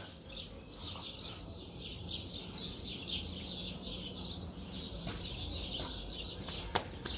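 Small birds chirping over and over in short, quick, falling chirps, with a sharp knock near the end.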